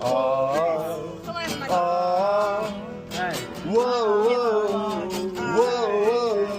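Acoustic guitar strummed under voices singing a wordless, long-held 'whoa' melody that wavers up and down.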